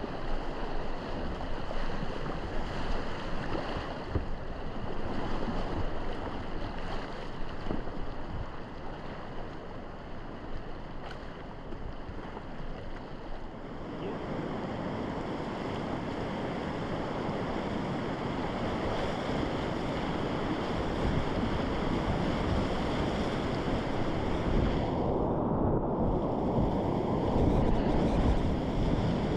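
Rushing whitewater of river rapids heard close up from a kayak, with wind on the microphone; the rush grows louder about halfway through and is briefly muffled near the end.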